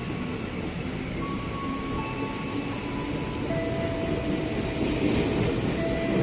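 Train running past, with steady rushing noise and thin whining tones that hold and switch in pitch every second or two. Hissing noise swells about five seconds in.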